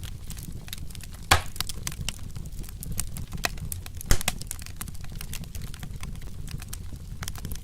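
Wood fire crackling steadily, with quick snaps over a low rumble of the flames and two louder pops, about a second in and about four seconds in.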